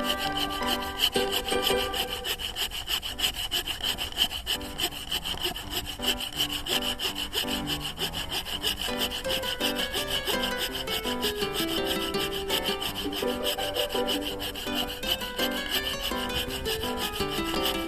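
Handsaw from a 100-yen shop cutting through a wooden log with rapid, steady back-and-forth strokes, with background music underneath.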